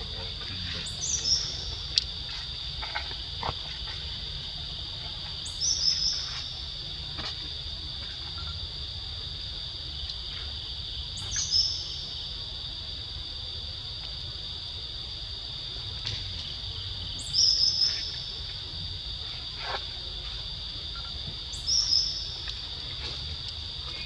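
Insects droning steadily and high. Over it, a bird gives a short, high call that falls in pitch, repeated five times about every five seconds.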